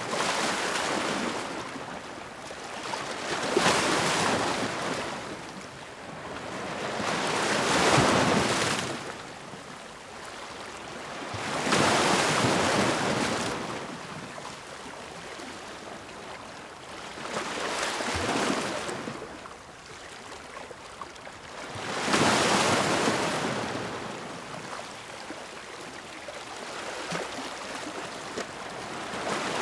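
Ocean waves breaking against rocks, one after another: each wave swells into a rushing crash and drains away, about every four to six seconds.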